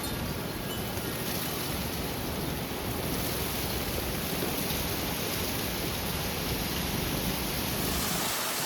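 Heavy rain and strong wind gusts of a thunderstorm line: a steady rush of noise with a low rumble, growing slightly louder.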